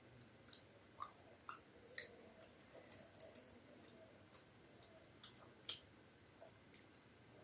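Faint wet chewing and mouth clicks of someone eating khichdi and chicken curry, with irregular soft smacks scattered through and one sharper click a little before the end.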